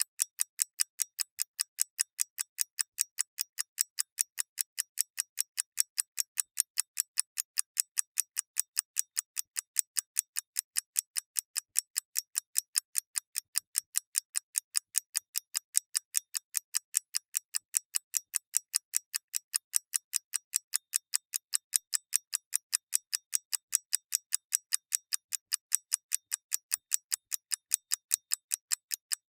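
Clock ticking in a quick, even, unbroken run of light, bright ticks with no low thud.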